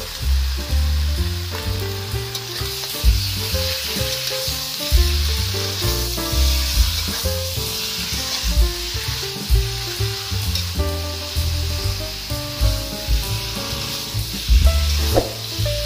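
Raw chicken pieces sizzling in a hot wok with spice paste, stirred and turned with a metal spatula that scrapes and knocks against the pan now and then. Background music with a stepping melody runs underneath.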